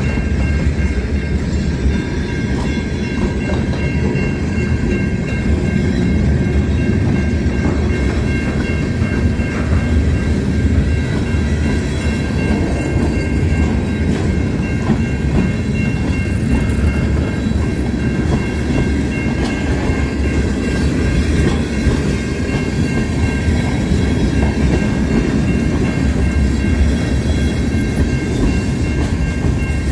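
Freight train of tank cars rolling past: a steady rumble of steel wheels on rail, with a thin steady high whine held over it.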